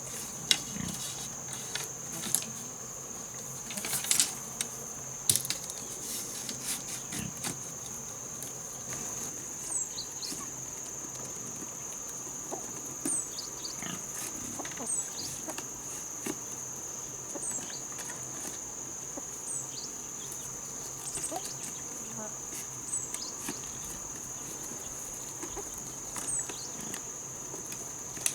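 Steady high-pitched drone of insects, with scattered sharp clicks and knocks, most of them in the first few seconds, and a few short chirps.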